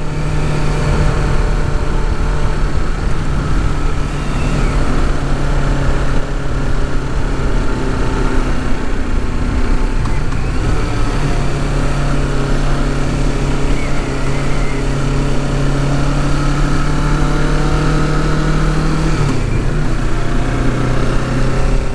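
Kawasaki Ninja 650's parallel-twin engine running under way at a steady cruise, its note shifting up slightly about halfway through and dropping a little near the end.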